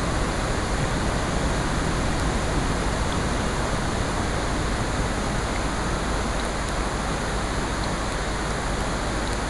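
Steady nature-sound ambience of rain and ocean surf with a fireplace layered in, forming an even wash of noise with a few faint scattered ticks.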